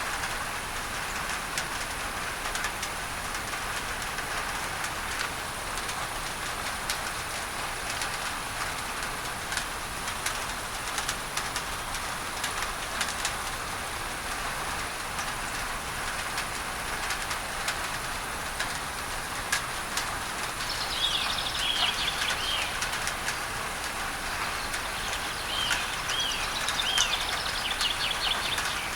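Steady rain on a tin roof with many small drop ticks, under an even masking hiss. From about two-thirds of the way in, a bird calls in short runs of quick repeated down-slurred chirps, several runs in a row.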